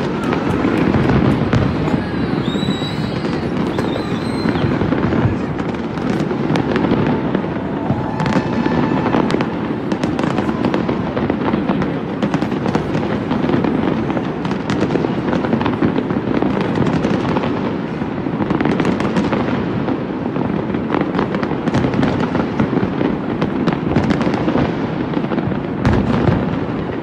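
Distant fireworks display: a dense, continuous barrage of bursts and crackles with no let-up, booming and echoing among tall buildings.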